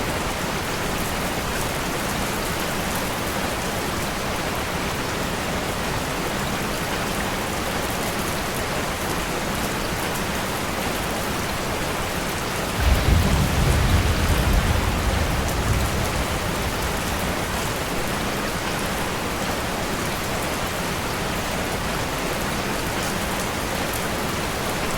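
Steady rain falling on a surface. About halfway through, a low roll of thunder starts suddenly and dies away over a few seconds.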